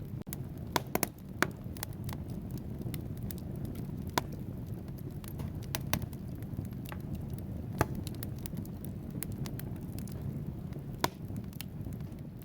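Wood fire burning in a fireplace: a steady low rumble of flame with crackling logs giving irregular sharp pops. A few louder pops come about a second in and again near the end.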